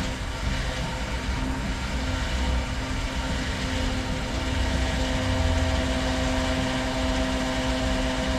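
Petrol pump running as fuel is dispensed into a car's tank: a steady hum with a few held tones over a low rumble and an even hiss of flowing fuel.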